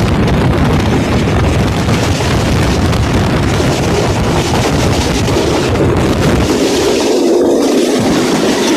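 Moving train heard from an open carriage door: a loud, steady rush of wind on the microphone over the rumble of the train running on the track. The deep rumble falls away about six and a half seconds in, leaving a mid-pitched rushing.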